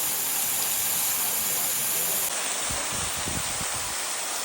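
Waterfall rushing: a steady hiss of falling water, changing abruptly about two seconds in, followed by a few low bumps.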